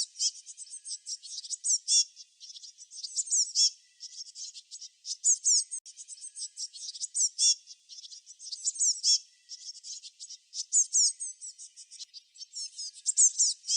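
Small songbirds chirping and twittering in quick, high-pitched notes, several calling over one another in clusters every second or two.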